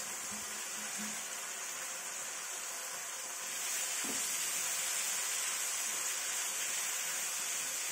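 Freshly chopped spinach sizzling in hot masala and ghee in a kadhai while it is stirred with a wooden spatula; a steady hiss that grows louder about three and a half seconds in. The masala is fully fried, with the ghee separating and bubbling.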